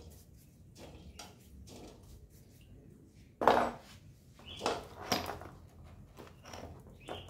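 Scattered knocks and clatter of tools and parts being handled, the loudest about three and a half seconds in, followed by two more about a second and a half later.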